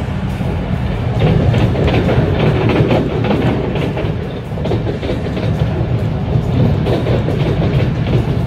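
Passenger train running on rails, a steady low rumble with repeated clicking from the wheels over the track, and music playing alongside.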